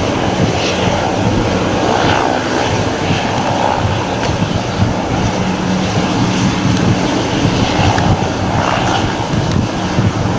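Airliner engines running, loud and steady.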